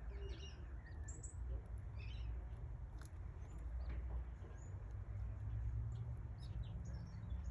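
Canary chicks cheeping: short, thin, high peeps scattered irregularly, over a steady low rumble.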